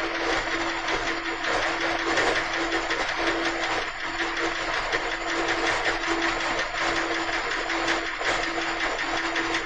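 Chevrolet 5.3 Vortec V8 idling warm with a fast, steady lifter tick from the valvetrain. The noise only comes on once the engine is hot, and it is typical of a collapsing hydraulic lifter.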